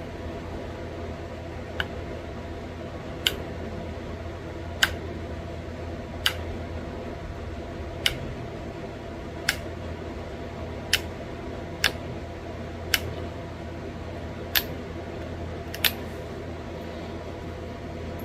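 Pressure flaking a thin green novaculite flake into a bird point: short sharp clicks, about one every second and a half, as small flakes pop off the edge, over a steady fan hum.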